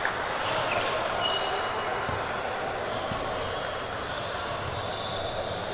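Gym sound of a basketball game in play: a ball bouncing on the court, a few short high squeaks, and a steady background of crowd and voices.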